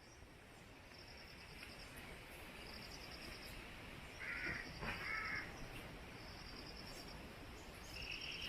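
A crow caws twice, faintly, about four and five seconds in. Under it, a high insect trill pulses in short bursts roughly every second and a quarter.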